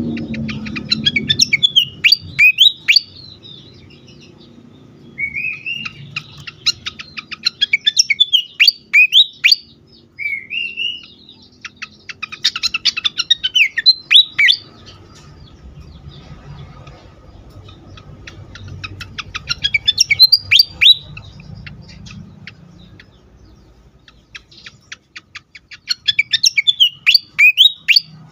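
Sikatan kipas singing in an agitated, worked-up way, in about six bursts of rapid sharp chattering notes mixed with short rising and falling whistles, with brief pauses between bursts.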